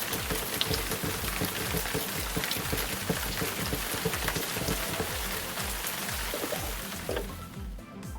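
Steady hiss of running water splashing as a plastic toy horse figure is washed, easing off near the end, over background music with a steady low beat.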